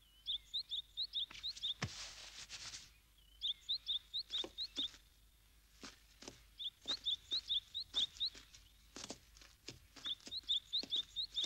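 Small bird chirping in short runs of quick rising notes, repeated every couple of seconds, over scattered soft taps and a brief hiss about two seconds in.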